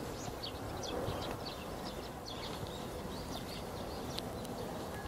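Birds chirping, short high chirps coming several times a second over a steady outdoor hiss.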